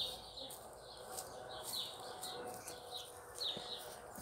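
Small birds chirping: short, high chirps repeated about twice a second.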